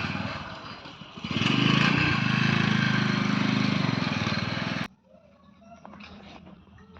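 A motor engine running loudly, with a steady pulsing drone. It grows louder about a second and a half in, then cuts off suddenly near five seconds, leaving only faint background sounds.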